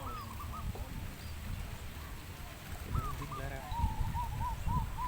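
Zebra doves (perkutut) cooing: a few short arched coos at the start and about three seconds in, then a steady run of repeated coos, about three a second, from nearly four seconds on. A low wind rumble on the microphone sits beneath.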